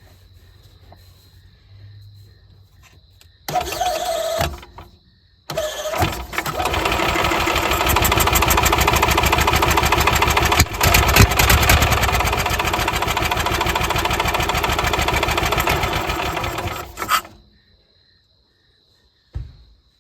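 1995 Yamaha gas golf cart engine being started: a short burst of cranking, then on the second try it catches quickly and runs steadily for about ten seconds before being shut off. It starts easily, the sign that the hard-starting fault is cured by the new throttle cable and carburetor adapter.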